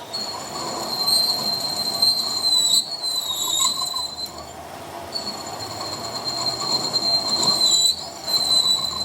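A high-pitched metal-on-metal squeal from a cutting tool working steel, a steady screech with a faint waver over a rough grinding noise. It breaks off briefly twice, about halfway through and near the end, and resumes each time.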